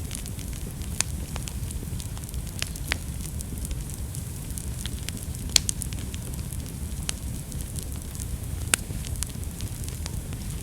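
Wood fire burning in a fireplace: a steady low rumble and hiss with sharp, irregular crackles and pops, a few of them louder, around the middle and later.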